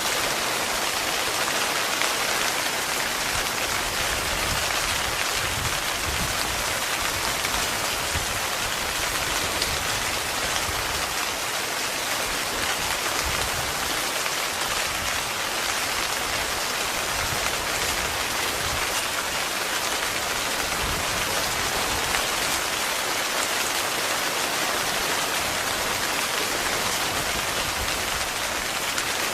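Heavy rain falling steadily on a tent, a dense, even sound of drops with no let-up.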